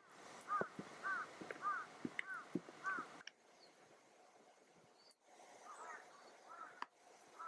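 A bird calling: a quick series of about six short, arched notes about half a second apart, then after a pause a fainter series of the same calls.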